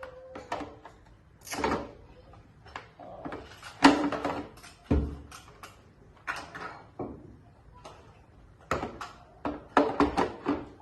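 An irregular series of sharp knocks and clatters, like objects or a door or drawer being handled, with a heavier thump about five seconds in.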